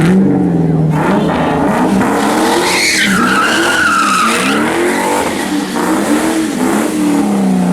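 A car doing donuts: the engine revs up and down over and over while the tyres screech, with a high squeal loudest from about three to four and a half seconds in.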